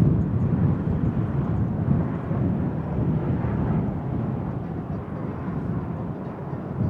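Jet airliner's engine rumble, a deep steady roar that slowly fades.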